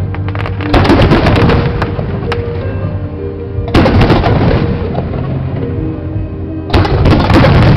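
Fireworks going off in three loud bursts about three seconds apart, each followed by a spray of sharp crackles, over music playing steadily underneath.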